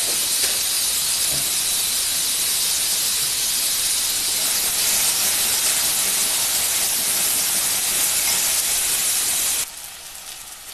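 Tomato and ginger-garlic masala frying in oil in a steel kadhai, a steady loud sizzle as it is stirred with a spatula while being browned. The sizzle drops off sharply near the end.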